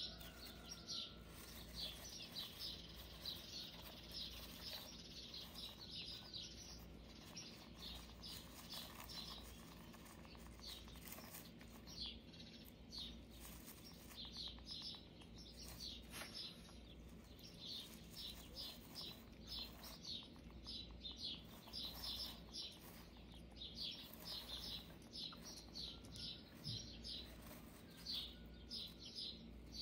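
Faint high-pitched bird chirping in quick runs of several notes a second, with short pauses between runs, over a low steady hum.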